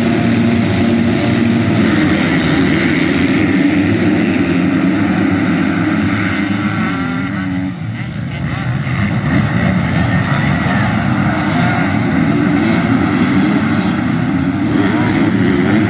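Motocross bike engines running hard and revving, a loud steady drone whose pitch rises and falls. The engine note drops away briefly about eight seconds in, then builds again.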